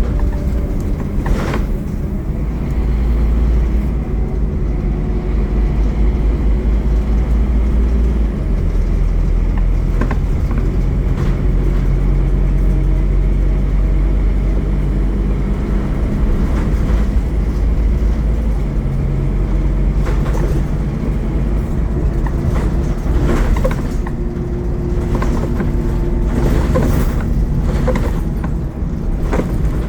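Scania N230UD Omnicity double-decker bus under way, its five-cylinder diesel running steadily, with the engine note shifting about eight seconds in and again a little before halfway. Sharp rattles and knocks come through, mostly in the second half.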